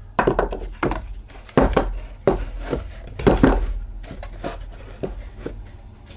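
Irregular knocks and clatters of pallet-wood pieces and tools being handled and set down, several with a short ring, the loudest about one and a half and three and a half seconds in.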